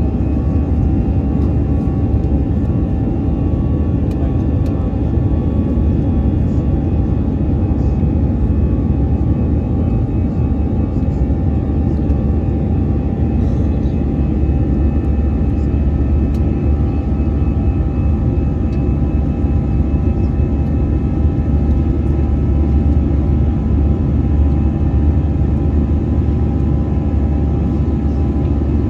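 Airbus A320 cabin noise during the climb after take-off: a steady, loud low rumble of the engines and airflow with a few faint steady whining tones above it.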